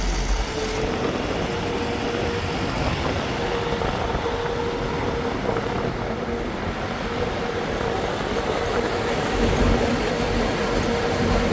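A machine or engine running steadily, a broad mechanical noise with a constant humming tone through it.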